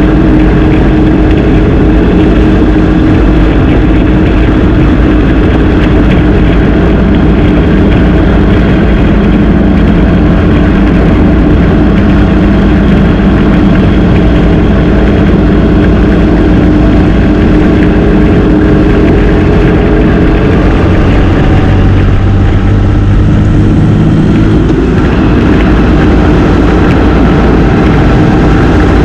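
Motorcycle engine running steadily while riding, over a dense low rumble. For a few seconds about two-thirds of the way through the engine note drops and changes, then picks up again.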